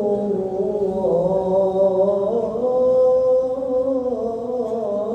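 A muezzin's voice chanting the adhan, drawing out the word 'rasul' of 'ashhadu anna Muhammadan rasulullah' in one long unbroken melismatic phrase. The pitch winds up and down, then settles on a held note about halfway through.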